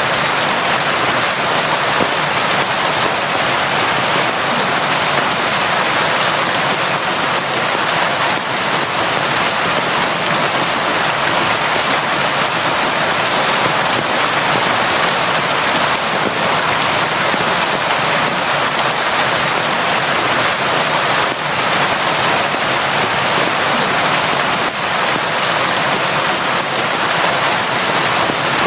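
Steady, heavy rain falling without a break, an even hiss of countless drops.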